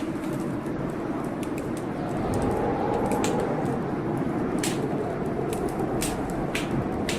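Blizzard wind blowing steadily, swelling in a gust about two seconds in, with a wood fire crackling and popping in sharp scattered snaps over it.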